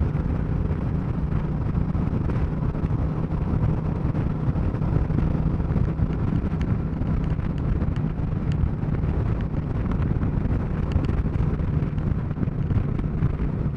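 Suzuki Marauder cruiser motorcycle's engine running steadily in fifth gear at highway speed, with wind noise on the microphone.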